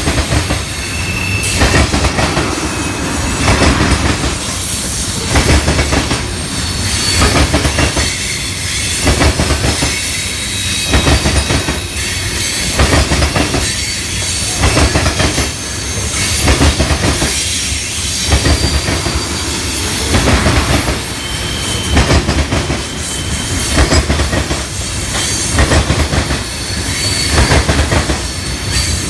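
Railroad cars rolling past, their wheels clacking over rail joints in an even rhythm about every second and a half, with brief high wheel squeals now and then.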